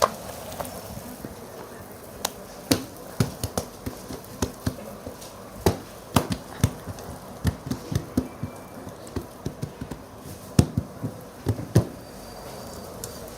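A long run of sharp knocks on a hard surface, coming in uneven clusters of about two to three a second, over a steady low background.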